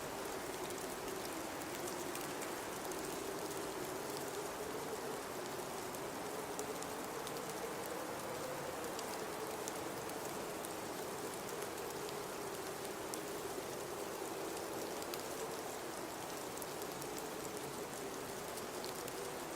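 Blizzard wind blowing steadily, with a low moaning tone that slowly wavers up and down in pitch over a constant hiss, and faint scattered ticks.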